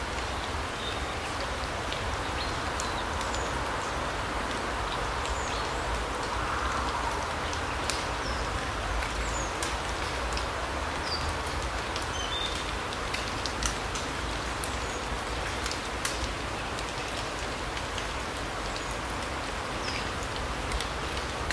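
Autumn larch-forest ambience: a steady rushing hiss with a low rumble beneath, many scattered sharp ticks, and now and then short high chirps of small birds.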